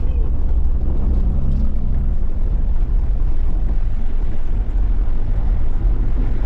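Off-road vehicle's engine running steadily with a low rumble, its pitch holding level.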